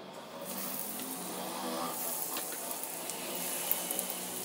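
Breaded chicken cutlets shallow-frying in hot oil in a pan: a steady sizzle that comes up within the first half second as they go into the oil.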